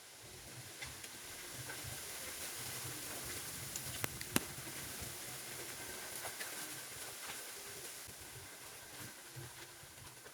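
A gust of strong wind swelling and fading, with two sharp clicks near the middle.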